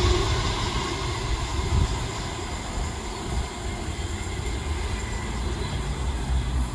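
Electric suburban train running past on the rails, its wheel and rumble noise slowly dying away as it moves off.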